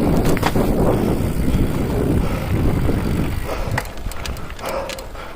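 Loud low rumble of a vehicle on the move, dying away about three and a half seconds in, with a few sharp clicks.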